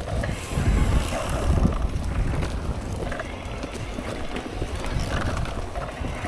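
Mountain bike rolling over a rough trail: wind rumble on the microphone, strongest in the first couple of seconds, with tyre noise and scattered knocks and rattles from the bike.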